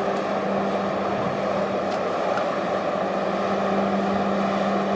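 A vessel's engine running steadily: a constant low hum over an even rushing noise.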